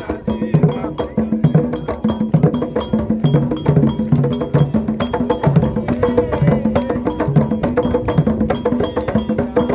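Candomblé toque: atabaque hand drums played in a fast, steady rhythm, with a struck metal agogô bell keeping time over the low drum tones.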